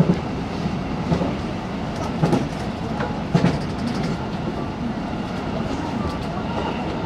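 Running noise of a JR 313 series electric train at speed, heard from inside the passenger car, with the wheels clicking over rail joints a few times in the first half.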